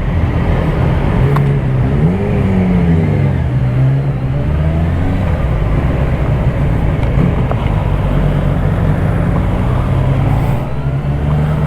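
Honda CBR650R's inline-four engine running under way, its note rising and then falling back about two to three seconds in before holding steady, with wind and road noise.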